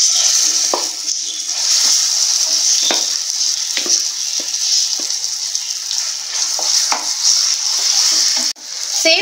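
Blended banana paste sizzling in hot ghee in a nonstick frying pan: a steady hiss with scattered light taps and scrapes of the spatula against the pan. The sound drops out briefly near the end.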